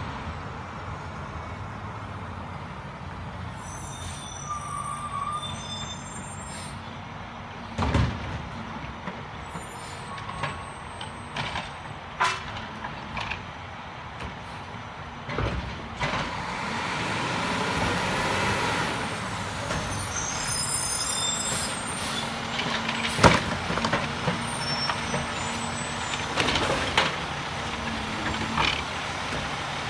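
Garbage truck running on its collection route: a steady engine hum with several sharp clanks and bangs, and a broad rushing noise that swells about halfway through.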